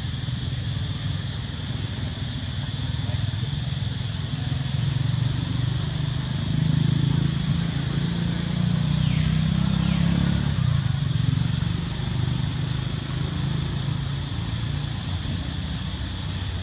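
Engine of a passing motor vehicle: a low hum that grows louder toward the middle and fades again. It runs over a steady high hiss.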